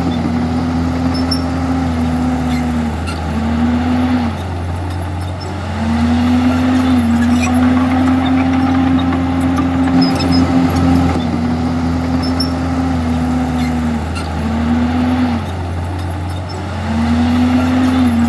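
Diesel engine of a Komatsu D51EX crawler bulldozer running under load, its note dipping and coming back up several times as the load changes.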